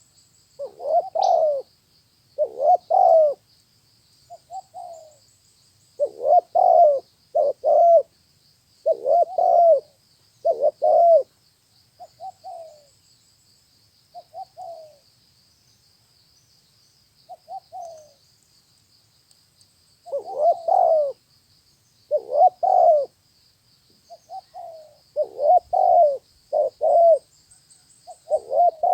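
Spotted dove cooing: loud low coo phrases of two or three notes, coming in bursts with pauses of a second or more between them, and softer single coos in the gaps.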